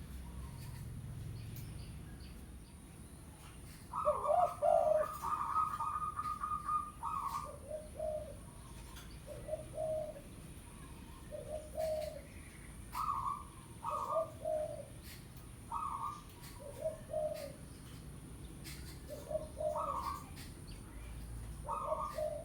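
Spotted dove cooing: short coos on two pitches, one higher and one lower, repeated every second or so from about four seconds in.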